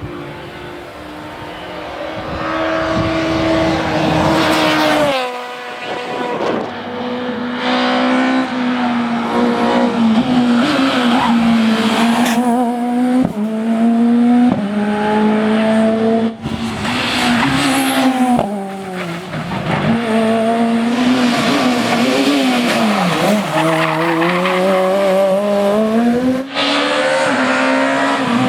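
Super 2000 rally cars' high-revving, naturally aspirated 2-litre four-cylinder engines driven hard, in a string of short clips cut together. The engine note holds, climbs and drops with throttle and gear changes over a hiss of tyres on the road surface.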